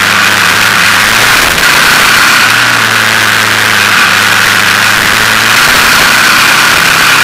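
KTM motorcycle engine running at a fairly steady pitch, with small shifts in its note a few times, recorded by an action camera on the bike together with steady noise.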